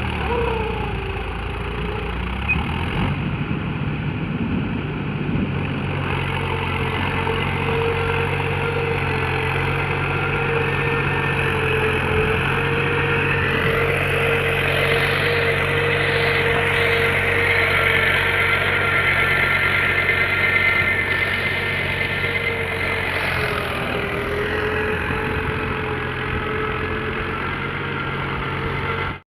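Mahindra tractor's diesel engine running steadily, with a steady higher tone held above the engine note.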